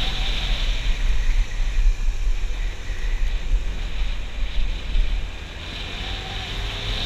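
Wind buffeting the GoPro microphone on a moving Yamaha YZF-R6 sport bike, a heavy, steady rumble. The bike's inline-four engine runs faintly underneath, its note rising near the end.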